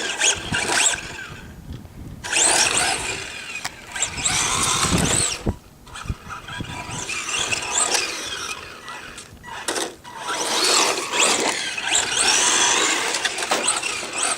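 Electric motor and gears of a radio-controlled car whining in bursts as it is throttled hard, the pitch rising and falling, with short lulls about two, six and ten seconds in.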